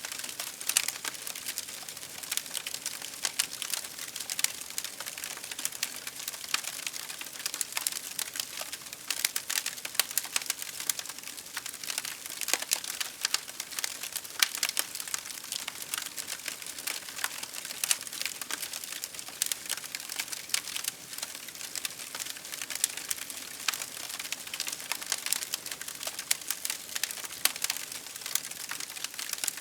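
Wood fire crackling steadily: dense, irregular pops and snaps over a soft hiss of burning.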